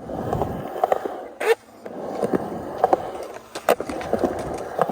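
Skateboard wheels rolling, broken by a series of sharp clacks, the loudest about a second and a half in.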